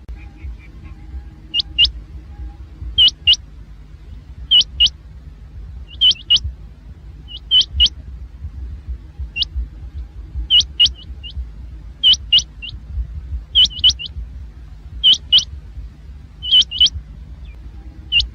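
Rain quail calling: sharp, high double notes, sometimes three, repeated about every second and a half, over a steady low rumble.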